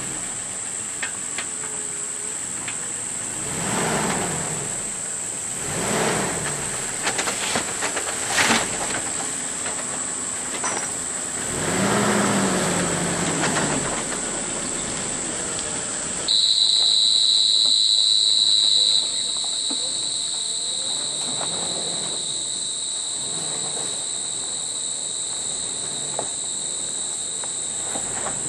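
A steady high-pitched insect drone, with a second, lower insect tone starting abruptly about halfway through. Under it, a small four-wheel-drive's engine revs up and drops back a few times.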